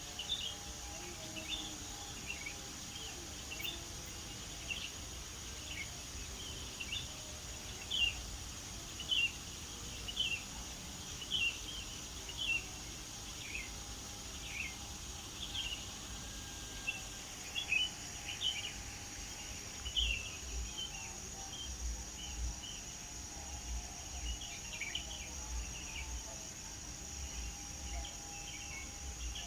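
Songbirds chirping, many short high chirps repeated irregularly throughout, over a steady high-pitched drone of insects.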